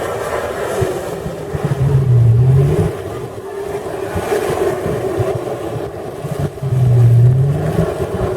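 Mud truck engine running hard under load, the revs rising and falling, with two loud surges about two and seven seconds in.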